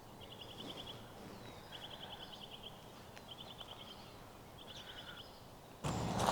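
A songbird singing four short, rapid trills of about seven evenly spaced high notes each, a second or so apart, over a faint steady background. Near the end a much louder rushing noise starts abruptly.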